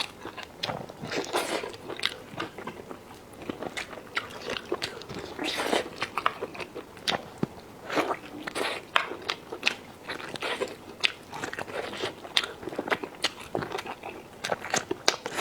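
Close-up eating sounds: irregular bites, crunching and wet chewing of food, with many sharp clicks and smacks.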